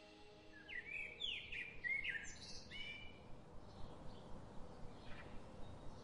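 Birds chirping: a cluster of short, quick chirps in the first few seconds, then fainter scattered calls, over a faint steady hiss.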